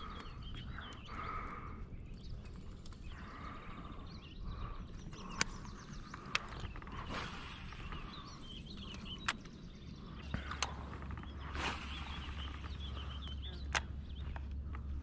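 Outdoor ambience of birds calling, with a few scattered sharp clicks and knocks. A steady low rumble comes in about two-thirds of the way through.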